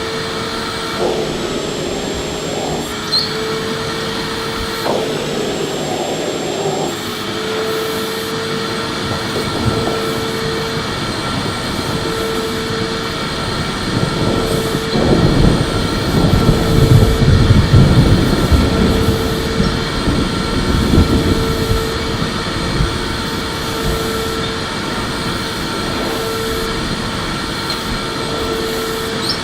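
Electric vacuum cleaner running steadily, its motor whine and rushing airflow continuous. From about fourteen seconds in, the sound grows louder and rougher for several seconds before settling back.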